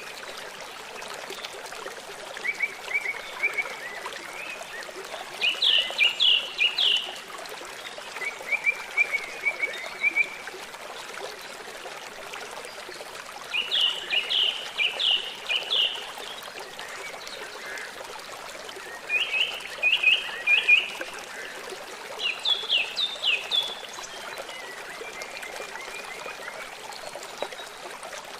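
Steady rushing of flowing stream water, with songbirds singing short phrases of quick repeated high notes every few seconds over it.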